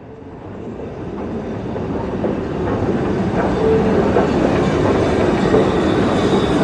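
Train running on the rails, a dense rumble with wheel clatter that swells over the first few seconds and then holds steady.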